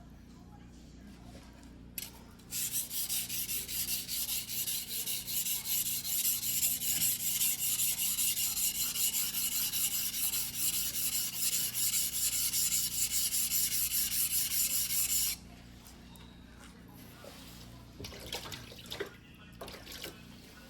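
Steel blade of a white-steel fuguhiki sashimi knife stroked back and forth on a whetstone during hand sharpening, about two to three even strokes a second. It starts a couple of seconds in and stops abruptly about fifteen seconds in, followed by a few light scrapes and clicks near the end.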